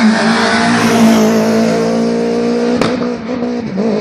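Rally car engine running hard at high revs, close by, its pitch held fairly steady with small wobbles. A sharp click comes about three-quarters of the way through, followed by a brief drop in level.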